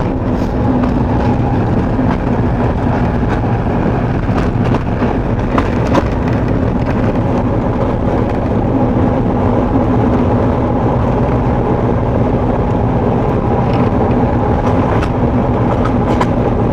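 TU4 narrow-gauge diesel locomotive's engine running steadily, with a few short clicks and knocks.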